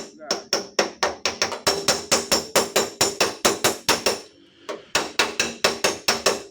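Hammer tapping rapidly on the steel sheet of a car's tailgate, about five ringing strikes a second, with a short break and a single tap about two-thirds of the way through; a dent is being knocked back out of the panel.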